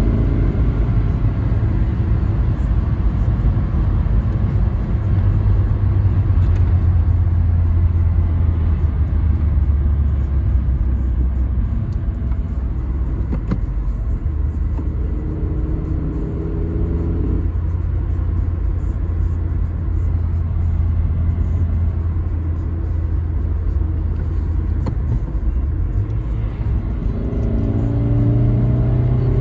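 Toyota Carina E's 1.6-litre 16-valve four-cylinder engine running while the car drives, over a steady low road rumble. The engine note rises in pitch under acceleration briefly in the middle and again near the end.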